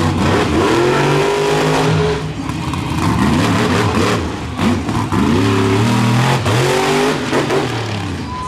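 Monster truck's supercharged V8 engine revving hard, its pitch climbing and dropping several times in quick bursts of throttle.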